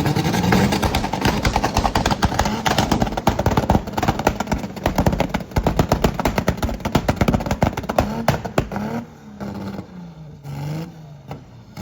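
Car engine revving hard, loud and crackling, then dropping away about nine seconds in to a lower, wavering engine note.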